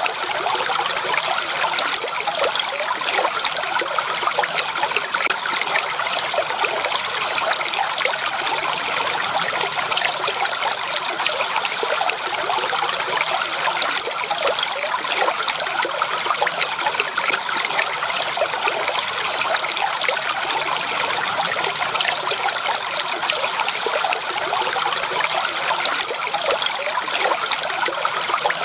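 Steady babbling and trickling of flowing water, a stream with many small splashes and no change in level.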